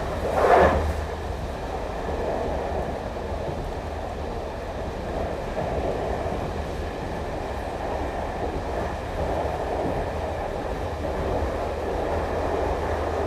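Diesel train station ambience: a steady low diesel engine rumble under the running noise of trains, with a brief louder burst of noise about half a second in.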